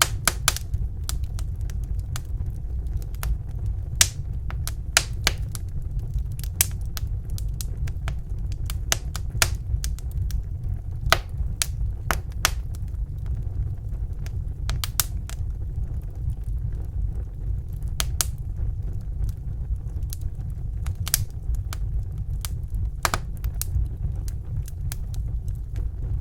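Wood fire in a fireplace crackling: irregular sharp pops, several a second at times and sparser at others, over a steady low rumble.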